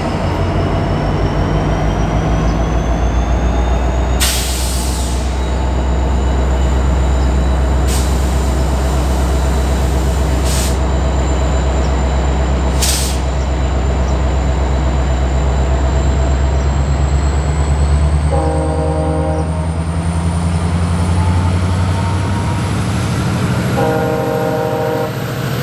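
Motive Power MP40PH-3C diesel-electric locomotive's engine running loudly and steadily, with a faint high whine rising slowly in pitch over the second half. The horn sounds twice, about two-thirds of the way in and again near the end.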